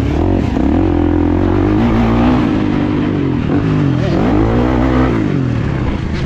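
Dirt bike engines on a motocross track revving up and down again and again as the riders throttle and shift.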